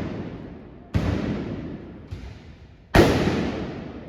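Trabucs (Catalan blunderbusses) firing blank black-powder charges: two loud blasts about two seconds apart, about a second in and near the end, with a fainter shot between them. Each blast echoes and dies away over a second or more.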